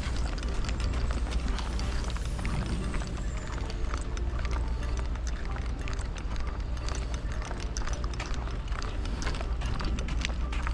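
Many irregular sharp clicks and taps over a steady low rumble.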